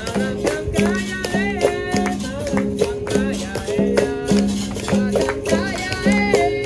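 Capoeira roda music: a berimbau struck in a steady, repeating rhythm of low notes, with a caxixi-like rattle shaken on the beat and voices singing over it.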